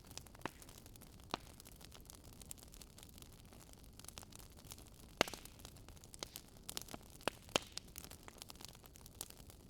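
Wood fire burning with a soft steady hiss and irregular sharp crackles and pops, the loudest pop about five seconds in.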